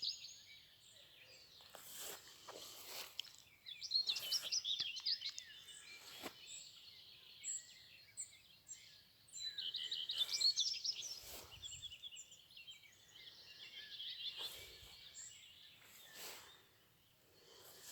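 Songbirds singing in a dawn forest: a bird's trilling phrases come and go every few seconds, loudest about four and ten seconds in, over thin high notes from other birds. Soft faint knocks sound now and then.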